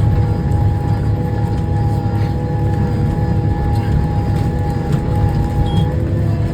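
M6 tractor engine running steadily under load in the cab, with a short high beep near the end as the transmission downshifts on its own, set off by the driver's leg against the shift control.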